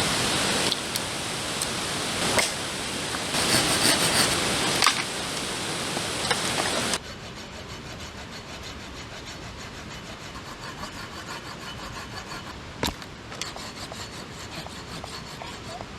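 A blade cutting firewood in repeated rasping strokes. For about the first seven seconds they sit over a loud steady rushing noise that cuts off abruptly. After that the strokes go on quieter, with one sharp knock about three seconds before the end.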